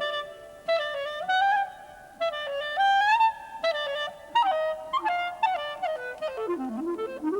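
Clarinet playing a quick, ornamented solo melody, with notes sliding up into one another and a swooping dip near the end.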